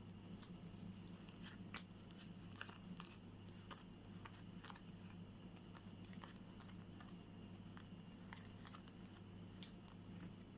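Playing cards being handled and laid out on a table: faint scattered clicks and slides of card stock, over a steady low electrical hum.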